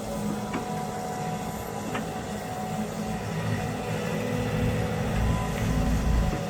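Diesel engine of a Sumitomo SH130-6 hydraulic excavator running under working load while loading a dump truck bucket by bucket, growing louder in the second half and dropping back near the end.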